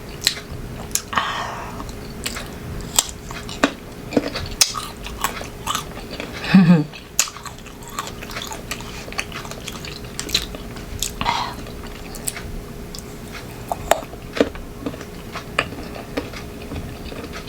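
Crunchy unripe green mango being bitten and chewed close to the microphone: a string of irregular sharp crunching clicks, with a short hum-like vocal sound about six and a half seconds in.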